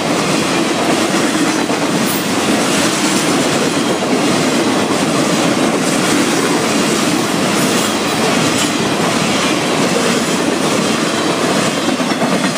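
Freight train flatcars loaded with long rails rolling past at speed: a loud, steady rumble and rattle of steel wheels on the track, with a few faint high squeaks.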